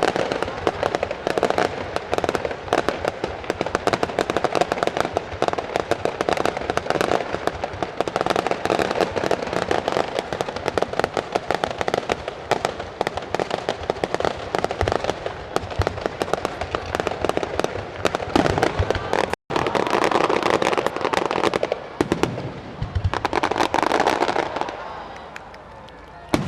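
Aerial fireworks in a finale barrage: a dense, continuous crackle of many bursts every second. There is a brief dropout about two-thirds of the way through, and the barrage thins near the end.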